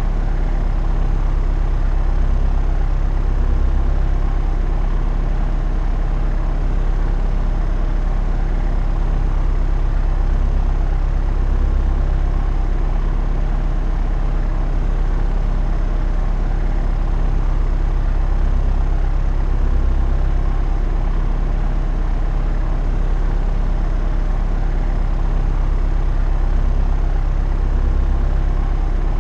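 Propeller aircraft in flight: the engine and propeller make a steady, even drone that swells slightly about every eight seconds.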